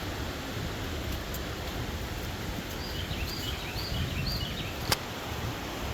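Steady outdoor rushing noise, with a small bird chirping about five short repeated notes around the middle. A single sharp click comes about five seconds in.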